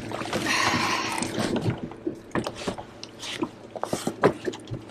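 A freshly caught fish being landed and handled in a boat: a splash of water for about the first second and a half, then irregular knocks and taps as it flops on the deck, the loudest near the end.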